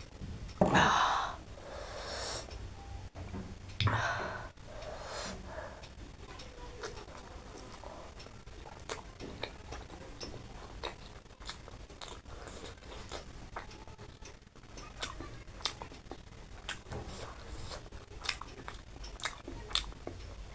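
Close-up eating sounds: chewing with wet mouth clicks and smacks. Two louder rushing noises come near the start and about four seconds in.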